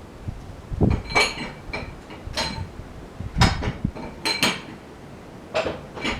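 Irregular metal clanks and knocks, about nine in all, some ringing briefly, from heavy metal gear being handled while moving a log at a sawmill.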